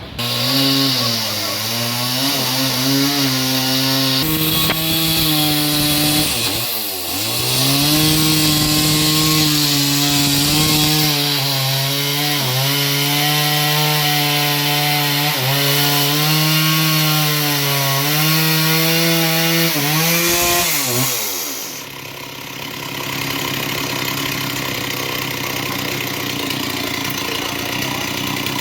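A sawmill's petrol engine drives the saw blade through a hollow log. Its pitch sags under load about seven seconds in and then recovers. Near the end the pitch falls away and the engine settles to a quieter, steady idle.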